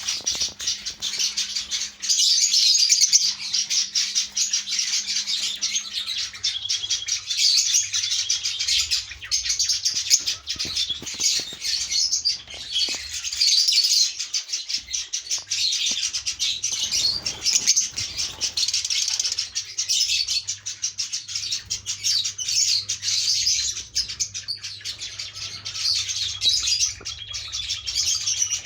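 A flock of lovebirds chirping, many rapid high chirps overlapping without a break.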